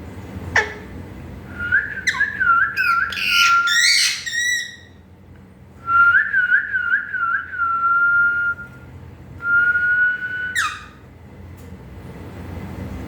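Pet parrot whistling: warbling whistled phrases that settle into a held note, with a short, sharp downward-sliding call about half a second in and another near the end.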